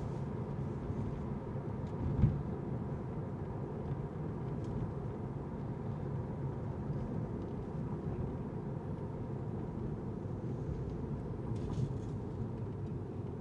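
Car driving with a steady low road rumble of tyres and engine, and one short low thump about two seconds in.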